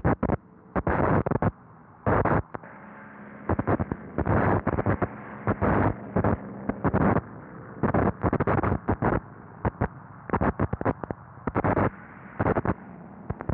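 Harsh, irregular bursts of noise, loud and abrupt, over a faint steady hum, on an early-1930s newsreel sound track.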